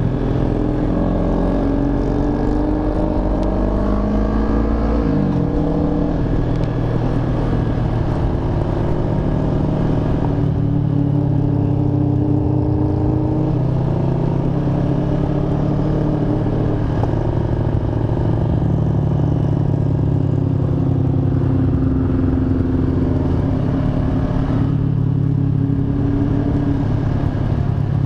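Kawasaki ER-6n's 649 cc parallel-twin engine running under way, heard close from the rider's position. It rises in pitch over the first few seconds, drops about five seconds in, and then runs fairly steady.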